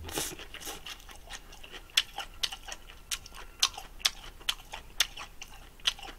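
A person chewing a mouthful of food close to the microphone, with a louder bite at the start, then irregular sharp wet mouth clicks and smacks a few times a second.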